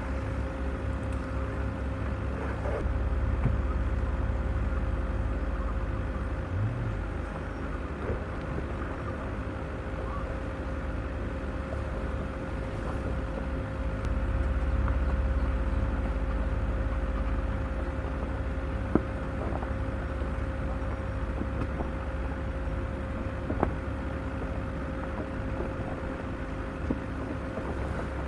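Off-road vehicle crawling over a rough forest trail: a steady low engine and tyre rumble that swells twice, with a constant higher hum and a few sharp knocks and clicks late on.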